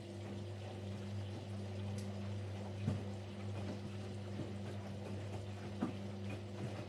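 Siemens Siwamat Plus 574 washing machine during a rinse: the drum motor hums steadily while water and laundry slosh in the drum, with a few soft thumps. The hum grows louder right at the start as the drum gets going.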